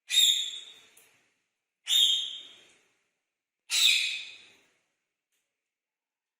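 Indian ringneck parakeet giving three loud, shrill calls about two seconds apart, each starting sharply and trailing off.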